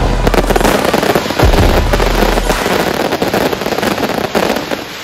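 Fireworks going off in quick succession: a dense crackle of many small bangs and pops, dying away near the end.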